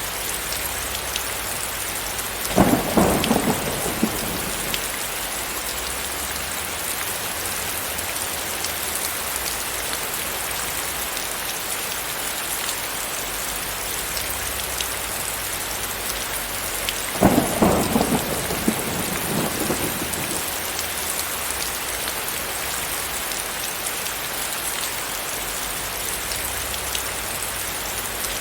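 Steady hiss of heavy rain, with two crackling rolls of thunder, about two and a half seconds in and again about seventeen seconds in, each dying away over a couple of seconds.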